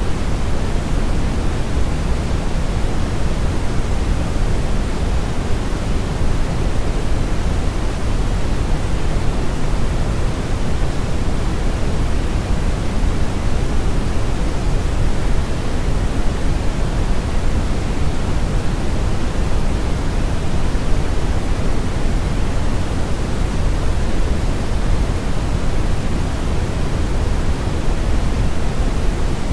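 Brown noise: a steady, even hiss with most of its weight in the low end and the highs rolled off, giving a deep rushing sound, unchanging throughout.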